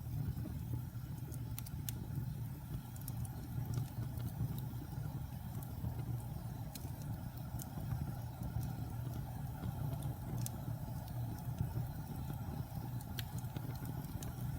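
Wood fire burning in a fireplace: a steady low rumble of flames with scattered sharp crackles and pops, about one every second or so.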